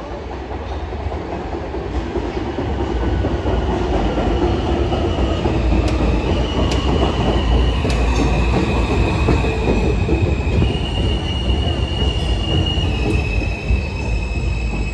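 R160 subway train running into the station. A loud rail rumble builds over the first few seconds and then holds, with high whining tones that shift in pitch several times.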